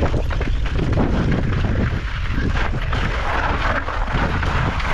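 Mountain bike descending a steep, loose gravel trail: tyres crunching and sliding over the loose rock with the bike rattling over bumps, under heavy wind rumble on the microphone.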